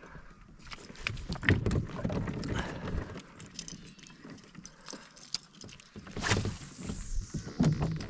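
Knocks and clatter on a kayak with water splashing, from paddling or handling gear aboard. There is a loud rushing splash about six seconds in.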